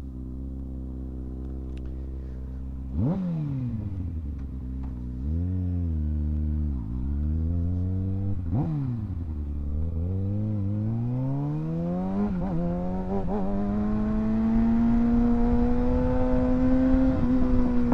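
Kawasaki ZX-6R 636 inline-four motorcycle engine idling, then revved sharply a couple of times, then pulling away with its pitch climbing slowly and holding as the bike gets under way. A low rumble of wind noise builds up under the engine near the end.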